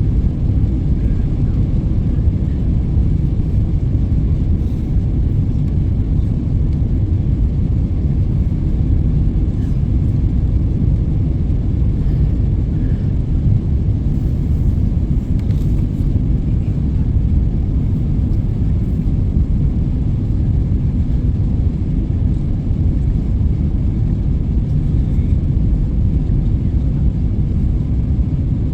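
Passenger airliner cabin noise: a steady low rumble of engines and airflow, even throughout.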